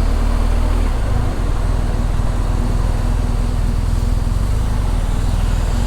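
Motor vehicle engine running steadily at idle, with a low, fast-pulsing rumble, over steady road traffic noise.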